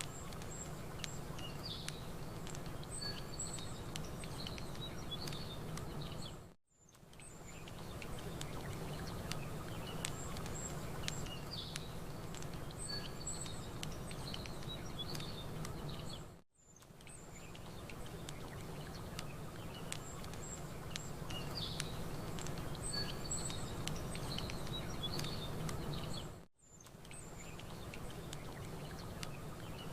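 Campfire crackling, with small birds chirping and a steady low wash of lake water behind. The same stretch of about ten seconds loops, each pass ending in a brief fade almost to silence about 6.5, 16.5 and 26.5 seconds in.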